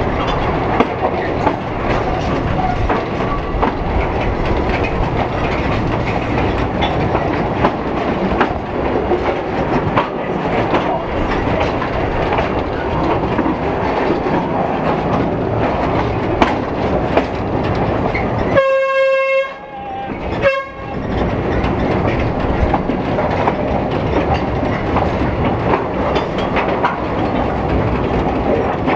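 Narrow-gauge passenger train running along the track, heard from aboard a carriage: a steady rumble with the click of wheels over rail joints. About two-thirds of the way in, the train's horn gives one long blast of a second and a half, then a short second blast.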